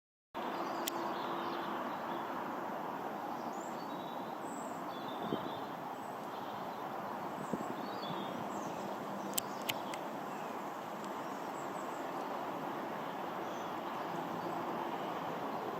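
Steady distant rushing roar of a high-flying aeroplane, with small birds chirping faintly and a few sharp clicks, two of them close together about nine and a half seconds in.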